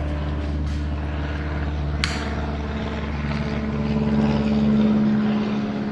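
A steady machine hum, one pitched tone with its overtones, which grows louder for a couple of seconds near the end. A single sharp click comes about two seconds in.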